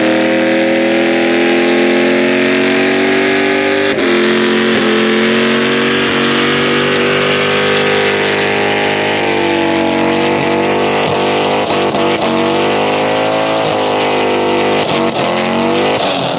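Car engines running on a speedway track, their pitch slowly rising and falling, with a few quick dips and rises in the second half.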